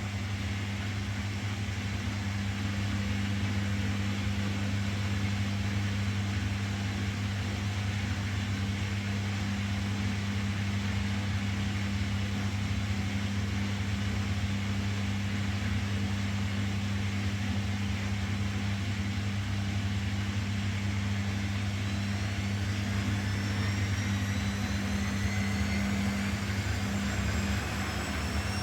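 Washing machine running with a steady low motor hum. About three quarters of the way through, a rising whine sets in as the drum speeds up.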